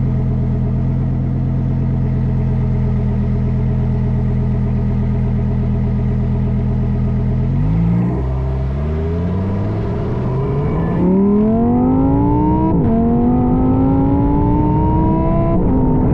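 Stock Lamborghini Huracán Tecnica's naturally aspirated V10 holding a steady low engine speed, then accelerating under manual shifts in Sport mode. The revs climb, fall sharply at an upshift about twelve seconds in, climb again, and fall at another upshift near the end.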